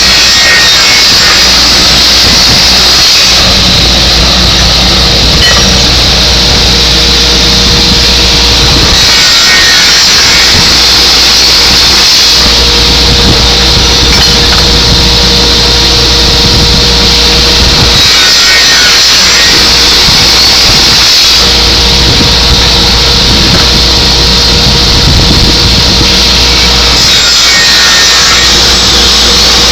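Servo-fed aluminium circular saw machine with an 18-inch blade and 7.5 hp motor, cutting aluminium stock in repeated cycles: four loud, high-pitched rasping cuts of about three seconds each, roughly nine seconds apart, with a steady whine from the spinning blade between cuts.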